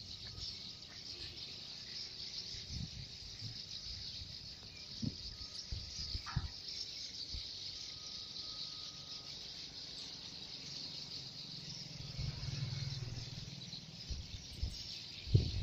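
Steady high chirring of insects. Scattered low knocks run through it, and about six seconds in there is one brief call that slides downward in pitch.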